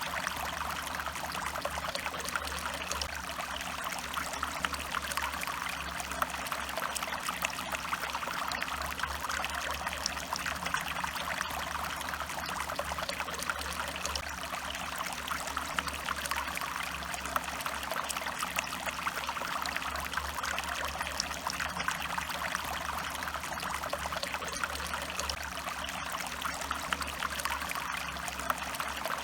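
Stream water trickling and flowing steadily, an even rushing with small scattered splashes.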